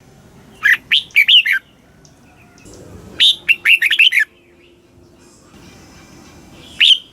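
Red-whiskered bulbul singing: short phrases of quick, bubbling notes, each about a second long, with pauses of about two seconds between them. The third phrase starts near the end.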